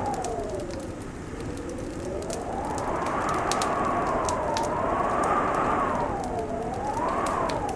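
Wood fire crackling in a fireplace, with many small sharp pops, over a whistling wind that slowly rises and falls in pitch.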